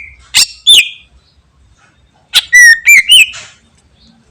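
Greater green leafbird (cucak ijo) singing loud, clear whistled notes with sharp pitch sweeps: two notes in the first second, then a quick run of four or five about two seconds in.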